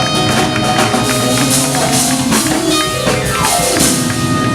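Live band music with drum kit and cymbals driving a steady beat, and a falling pitch slide a little past the middle.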